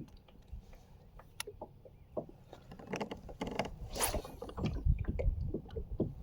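Small knocks, clicks and scrapes of handling in a kayak, with a louder scraping rush about four seconds in, then an uneven low rumble.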